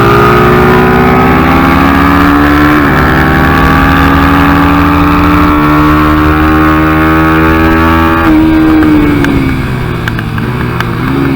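Big-bore 150 cc Yamaha TTR125 four-stroke single in a Kayo MR125 pit bike, ridden hard. It climbs in pitch with a brief dip about three seconds in, holds at high revs, then the throttle closes about eight seconds in and the engine falls off, picking up again near the end. The rider finds this bike's throttle hard to open smoothly, which the owner puts down to a lean pilot jet.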